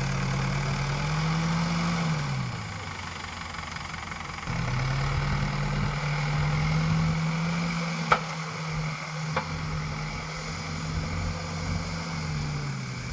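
Backhoe loader's diesel engine running, its revs rising briefly, falling back, then rising again and held for several seconds before dropping near the end. Two sharp knocks sound about a second apart midway.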